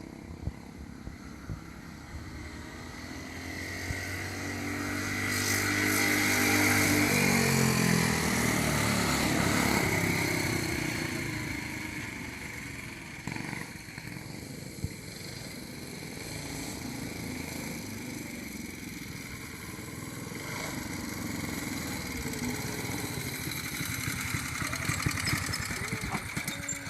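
Small 3.5 and 5 horsepower minibike and go-kart engines running hard. The sound grows loud about four seconds in, the pitch drops as they pass close by, and they then fade off into the distance.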